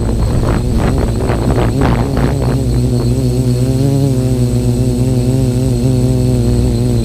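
Q450 quadcopter's electric motors and propellers buzzing in flight. For the first two and a half seconds the sound surges rapidly, then it settles into a steady hum whose pitch wavers slightly. The wavering comes from a flight controller that is not well tuned, correcting the craft in gusty wind.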